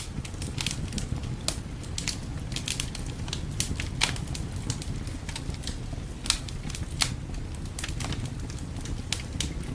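Wood fire crackling in a fireplace: irregular sharp pops and snaps, with a few louder ones near the middle, over a steady low rumble.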